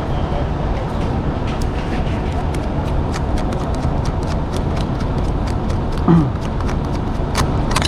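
A steady low rumble with frequent short, sharp clicks and taps scattered through it, in the way of hand tools working on a bus's air-conditioning valves and piping. A brief falling squeak comes about six seconds in.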